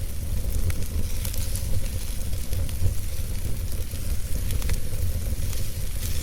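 Wood fire burning with a steady hiss and scattered small crackles and pops, over a constant low rumble.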